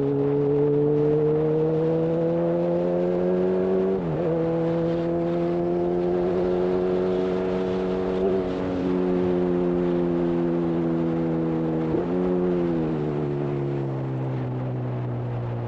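Honda CB1000R inline-four running through a full-system Black Widow exhaust under way. The revs climb slowly for the first few seconds, hold, then ease off gradually, with brief wobbles in pitch about four and twelve seconds in.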